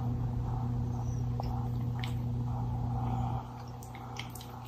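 A steady low hum that cuts off suddenly about three and a half seconds in, followed by a few faint clicks.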